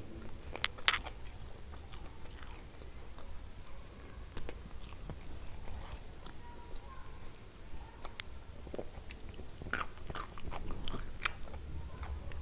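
Close-miked chewing and mouth sounds of eating roast chicken wings and eggplant, with scattered short sharp clicks that cluster about a second in and again around ten to eleven seconds.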